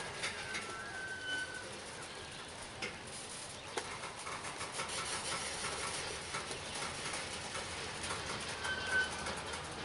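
Loaded coal train rolling slowly on the rails: a steady wheel-and-rail rumble with scattered clicks, and brief high squeals about a second in and again near the end.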